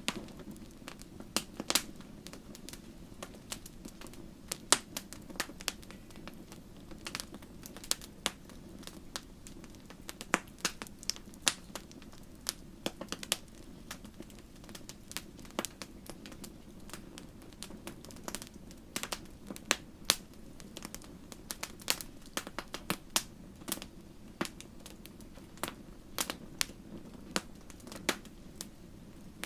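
Wood fire crackling in a fireplace: irregular sharp pops and snaps, sometimes several in quick succession, over a steady low rush of the burning fire.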